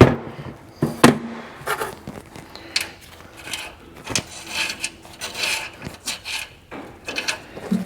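Hand work prying a bumper pad off a Humvee body: irregular scraping and rubbing, with two sharp knocks, one at the start and one about a second in.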